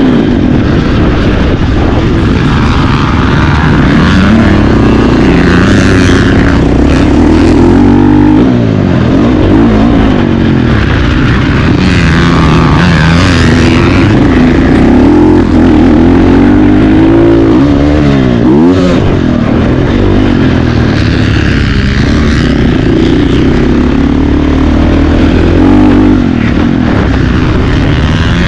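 Motocross bikes racing, their engines loud and continuous, pitch climbing and dropping again and again as riders accelerate and shut off, with more than one engine heard at once.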